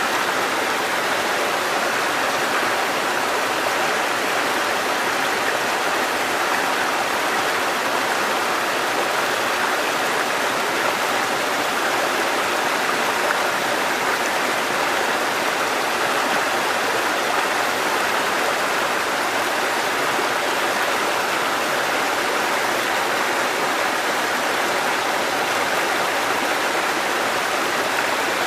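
Mountain stream water cascading over rocks: a steady, even rushing.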